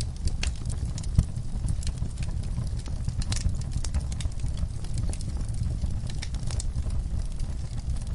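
Wood fire crackling, with irregular sharp pops over a steady low rumble; the loudest pop comes about a second in.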